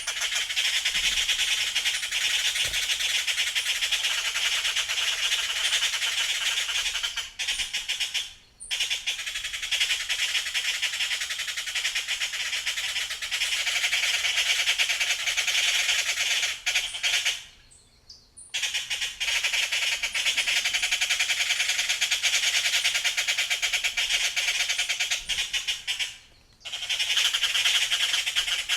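Dense, continuous chorus of many birds chirping and calling at once, high-pitched, with brief cut-outs three times.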